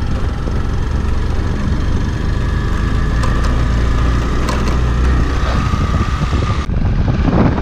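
Hero Xpulse 200's single-cylinder four-stroke engine running steadily as the bike rides over a gravel road, with a few sharp ticks of stones against the bike. The sound changes abruptly near the end.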